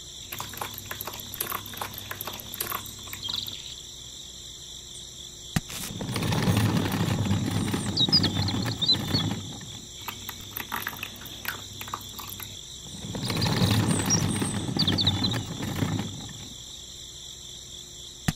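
Wet concrete mix sliding and pouring out of a miniature hand-turned mixer drum and tin wheelbarrow: two long rushing stretches of a few seconds each, with light clicks and scrapes of the small metal parts in the first few seconds. A steady high cricket chirring runs under it.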